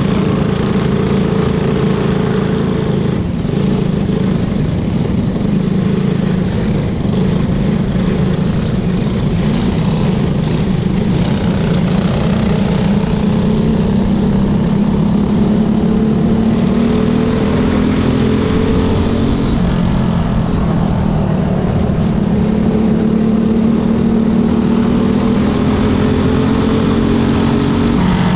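Junior-class racing motorcycle engines running hard through a race, their pitch climbing again and again as the bikes accelerate.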